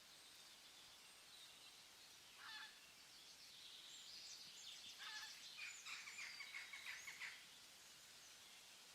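Near silence, with faint high chirping of birds in the background from about two and a half to seven seconds in.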